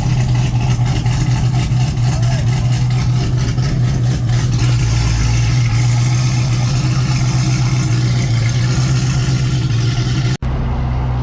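Car engine running at a steady, unchanging pitch with road and wind noise, as at a constant cruise rather than a hard pull. The sound drops out abruptly for a moment near the end.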